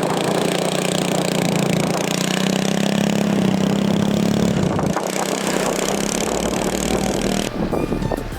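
An engine running steadily, its pitch rising a little and then dropping back about five seconds in.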